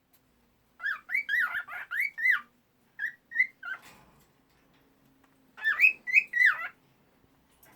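Female cockatiel singing: a quick run of chirped whistle notes, each rising and falling in pitch, then two short notes, then a second run near the end.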